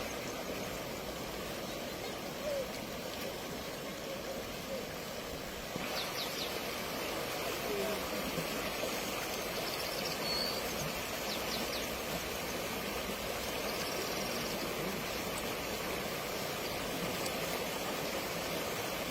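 Steady rushing of floodwater, a continuous noisy wash that gets a little louder and brighter about six seconds in.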